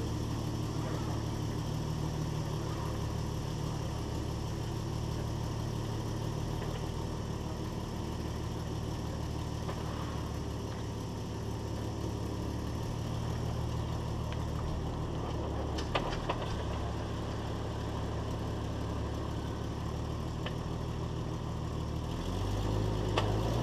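Jeep Wrangler YJ engine running at low speed, heard from beneath the vehicle near the rear axle, with a couple of sharp clicks midway and the engine note rising near the end.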